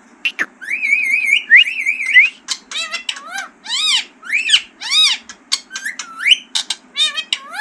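A pet rose-ringed (green ring-necked) parakeet whistling and calling. It gives a warbling whistle about a second in, then a run of repeated rising-and-falling calls, short clicks and chirps, and a rising whistle near the end.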